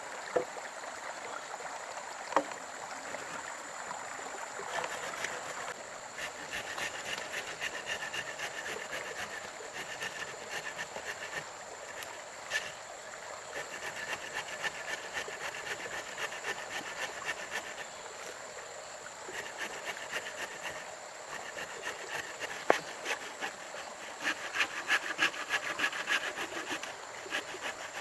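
Wood being hand-sawn in several bouts of quick, even strokes, with a few single sharp knocks. Running water can be heard throughout.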